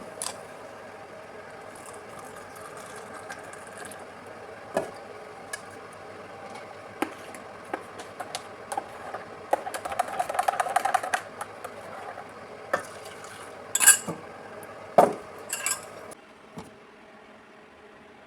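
Dishes and cutlery clinking and rattling, with a quick run of clinks about ten seconds in and two sharp knocks near the end, over a steady low hum.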